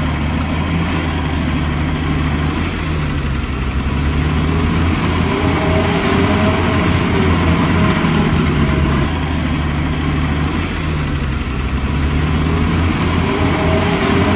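Heavy earthmoving machine's diesel engine running steadily, its pitch dipping and climbing back a few times.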